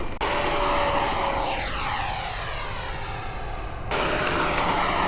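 Electric ducted-fan model jet flying past, its rushing whine sweeping down in pitch as it goes by. The sound cuts in abruptly twice, shortly after the start and about four seconds in, each time at a new pass.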